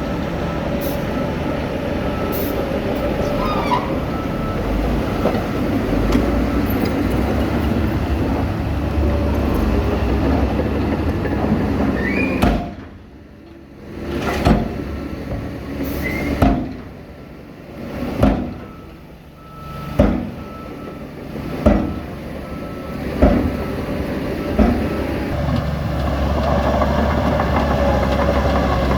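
Heavy diesel machinery running steadily with a few short squeaks. Midway the engine sound drops away repeatedly, broken by sharp knocks every second or two, then the steady running returns.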